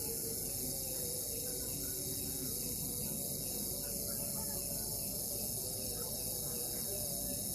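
Steady chorus of crickets chirping, a continuous high-pitched trill that does not let up.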